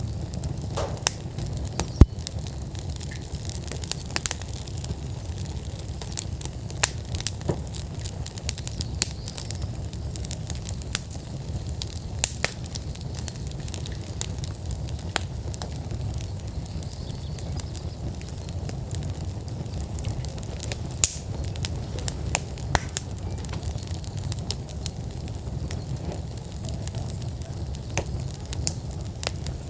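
Split-log wood fire burning in an outdoor fire pit, crackling with frequent irregular sharp pops over a steady low rumble. The loudest pop comes about two seconds in.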